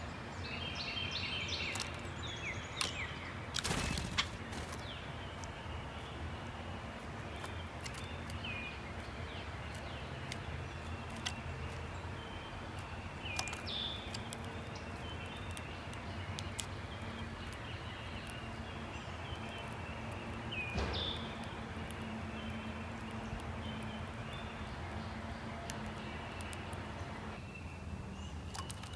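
Outdoor backyard ambience: a steady low background hum with scattered short songbird chirps and a few sharp clicks, and a brief rush of noise about four seconds in.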